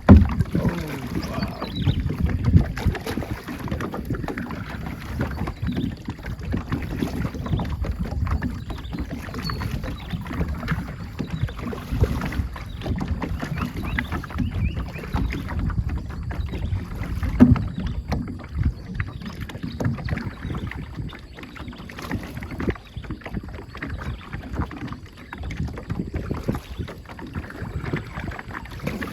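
Wind buffeting the microphone on a moving boat, over the rush of river water past the hull, with a few louder gusts.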